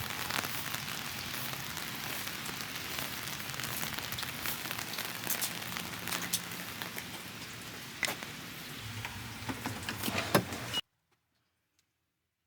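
Steady rain hiss with individual drops ticking sharply over it; it cuts off suddenly about eleven seconds in.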